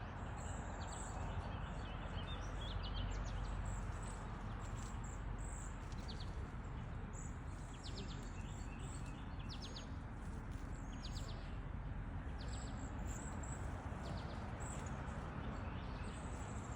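Small birds chirping and calling repeatedly: thin high calls and quick sharp chirps, over a steady low outdoor background noise.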